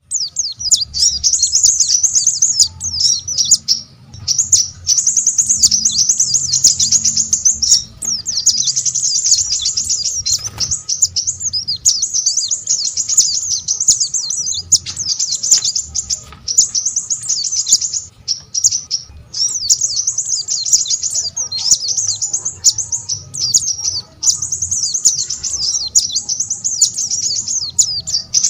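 Small songbirds singing: rapid, high twittering phrases of a few seconds each, separated by short breaks.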